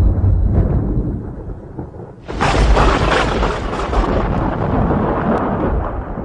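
Thunder: a low rolling rumble fades, then a sudden sharp thunderclap cracks about two seconds in and rolls on into a long rumble that slowly dies away.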